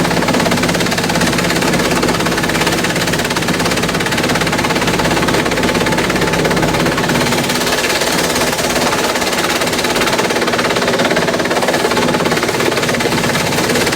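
Industrial bamboo shredder running: a loud, steady, dense clatter of rapid impacts over a low machine hum.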